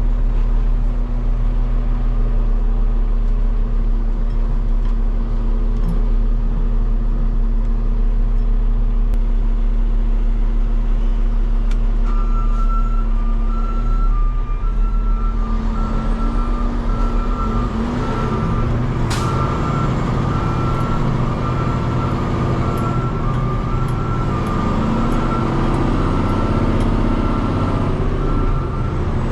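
Peterbilt 589 dump truck's diesel engine idling steadily. About twelve seconds in a reversing alarm starts beeping in two alternating tones and keeps going, and a few seconds later a rougher mechanical noise joins the engine, with one sharp click near the middle.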